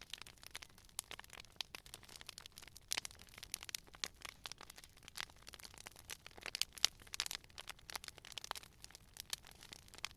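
Campfire crackling: irregular pops and snaps of burning wood over a faint low rumble of the flames.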